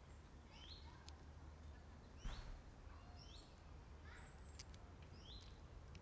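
A small songbird calling faintly in the background: a short high note repeated about once a second. One thump about two seconds in, over a low steady rumble.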